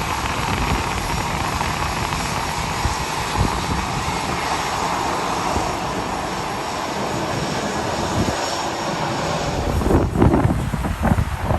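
Jet airliner's engines passing overhead, a steady rushing roar that swells through the middle and fades. Gusts of wind buffet the microphone near the end.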